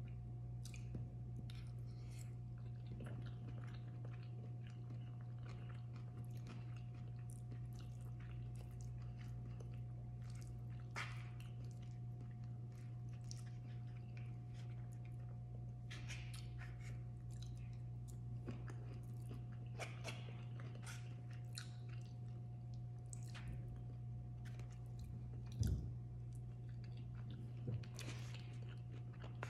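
Close-miked chewing of a rice bowl: soft wet smacks and light crunches, repeated over and over, with a steady low hum underneath. A louder short knock comes near the end.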